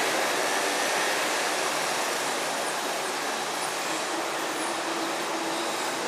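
Steady, loud machine noise: an even rushing hiss with a faint, slowly drifting motor hum underneath.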